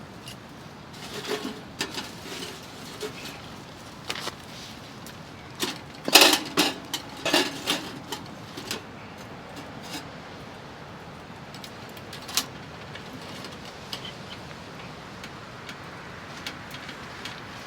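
Hot tent walls buffeted by gusty blizzard wind, a steady rushing hiss under scattered sharp rattles and knocks, with a dense clattering flurry about six to eight seconds in.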